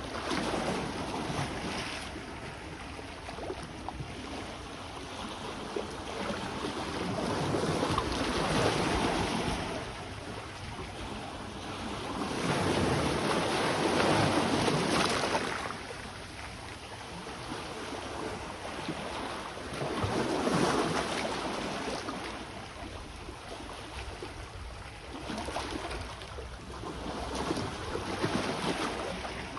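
Sea waves breaking and washing ashore, the surf swelling and fading again about every five to seven seconds.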